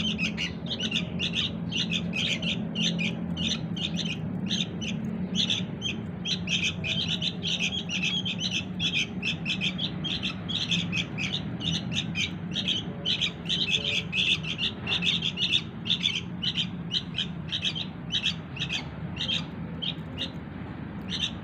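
Young sooty-headed bulbul chicks calling: short, high chirps repeated several times a second in a near-unbroken stream, the calls that draw the parent birds in.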